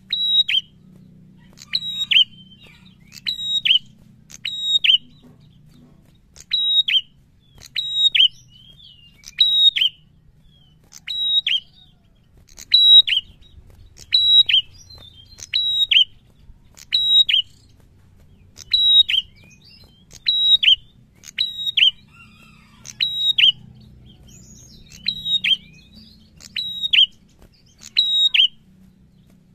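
Caged prenjak singing loudly and repeatedly: a short phrase of two or three sharp, high, downward notes, given about every one and a half seconds, with a brief pause about five seconds in.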